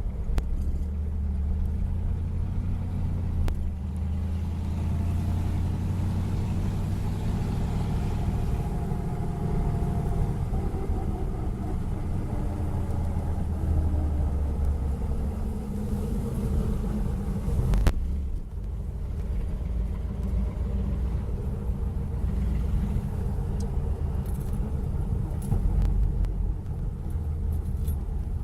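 Car driving, with a steady low engine and road rumble whose pitch wavers slightly in the middle. One sharp click about two-thirds of the way in.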